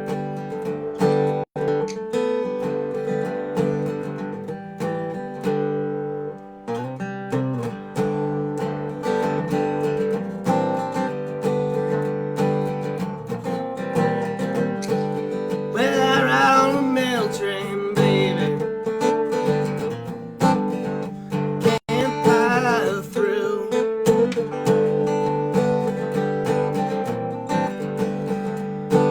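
A Dobro resonator guitar playing a slow blues. Notes are sustained and ring, and wavering, sliding high notes come in about halfway through and again a few seconds later.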